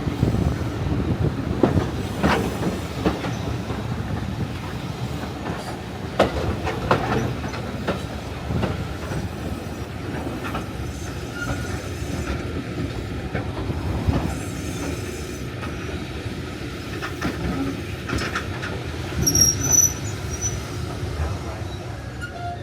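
Heritage railway carriage riding along the line: a steady low rumble of wheels on rail with irregular clicks over the rail joints. A brief high wheel squeal comes near the end.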